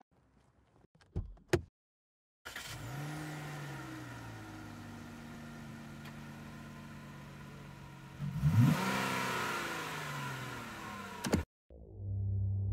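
A couple of sharp knocks, then a Dodge Charger's V8 running: it comes in about two and a half seconds in, its pitch rising briefly before settling to a steady idle, and about eight and a half seconds in it is revved once, the pitch rising and falling back. The engine sound cuts off suddenly near the end, and music begins.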